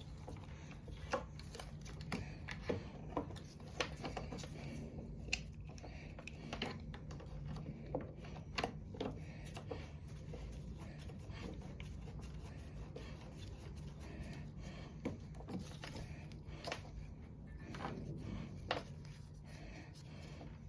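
Scattered sharp clicks and taps at irregular intervals, over a steady low hum: small metal parts and hand tools being handled during work on a lawn mower engine.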